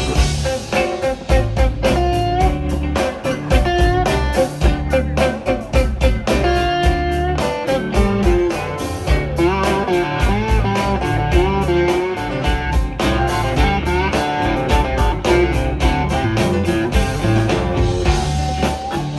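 Blues band playing an instrumental break: a guitar lead with bent, wavering notes over bass and drums.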